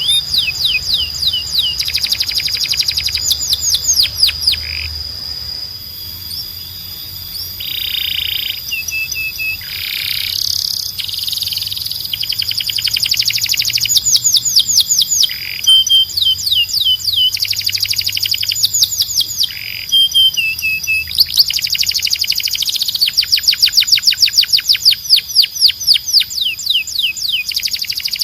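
Domestic canary singing a long song of fast trills and rolls, runs of rapidly repeated high notes that change speed and pitch every few seconds, over a steady high held tone.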